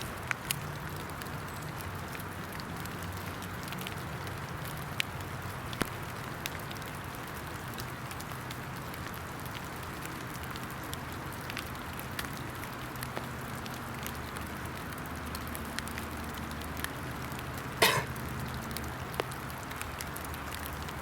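Steady rain falling in wet woods, with scattered drips and light clicks, a low hum underneath, and one louder rasping crack near the end.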